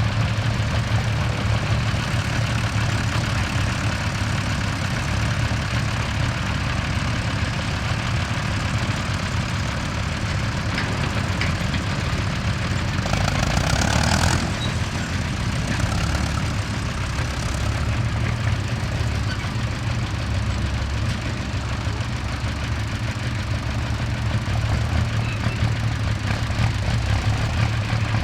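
Large tractor diesel engine running steadily at a low idle, with a brief rush of hissing noise about halfway through.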